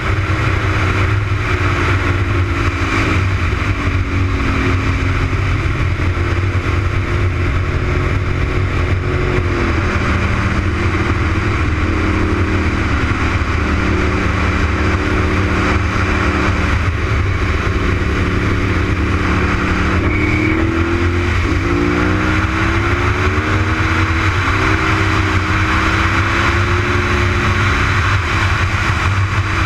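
Honda RC51's V-twin engine under way at track speed, its pitch rising and falling with throttle and gear changes. It holds a steady pitch through a long stretch in the middle, then drops and climbs again about twenty seconds in, under a constant rush of wind on the microphone.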